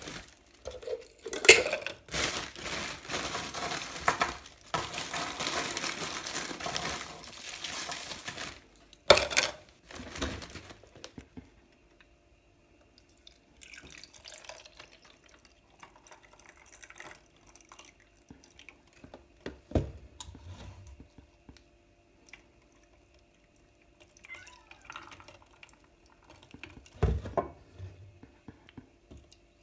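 Cocktail making by hand: a knock, then several seconds of liquid and ice pouring, followed by sparse clinks and knocks of glasses and bottles, with two sharper knocks later on.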